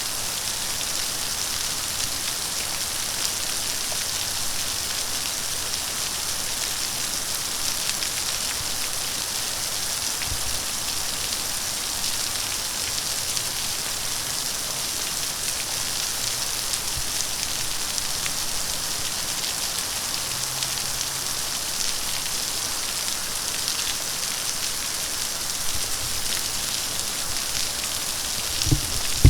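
A steady, even hiss, strongest in the high range, with no pitch or rhythm. A few low knocks come near the end.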